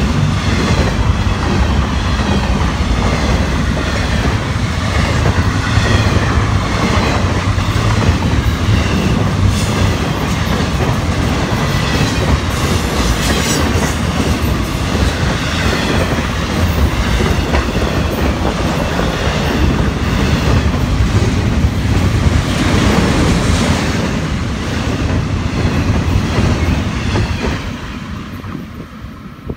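Intermodal freight train cars, carrying double-stack containers and highway trailers, rolling past loud and steady; the noise falls off quickly near the end as the last car goes by.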